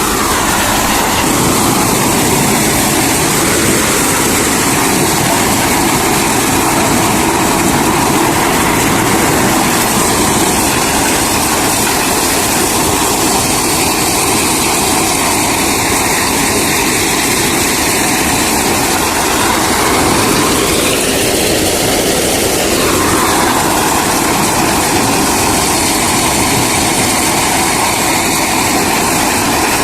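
Reinforce P-335 maize thresher running steadily at work, a loud continuous machine din with a brief change in tone about two-thirds of the way through.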